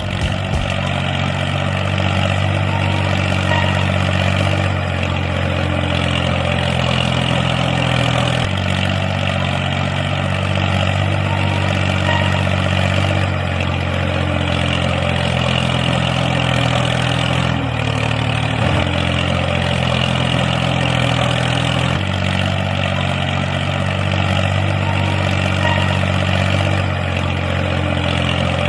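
Engine running steadily at a low, even idle-like speed, its pitch shifting slightly a few times.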